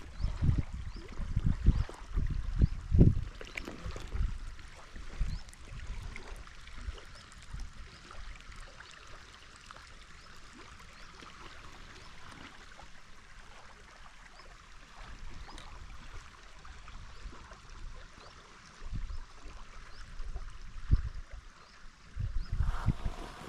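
River water rippling and trickling steadily, with gusts of wind buffeting the microphone, heaviest in the first few seconds and again near the end.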